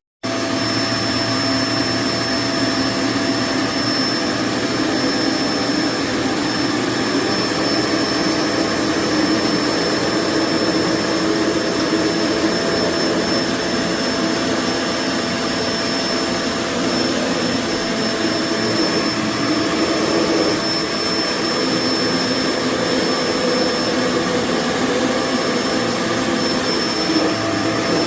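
Kenmore BU4050 Intuition bagged upright vacuum switched on and running steadily: a constant rush of air with a thin high whine.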